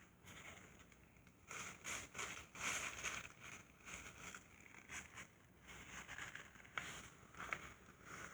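Irregular rustling and scraping from hands working on parts, with two sharp clicks near the end.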